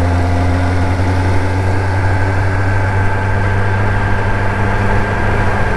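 Kawasaki ZX-10R's inline-four engine running at steady low revs, a constant hum with no revving.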